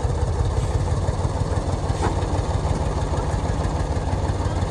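Truck engine idling steadily, a low, pulsing hum.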